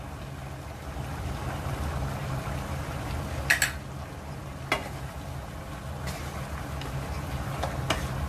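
Mutton cooking in its juices in a non-stick wok, sizzling and bubbling over a steady low hum as oil is poured in, with a few sharp clicks; a wooden spatula starts stirring near the end.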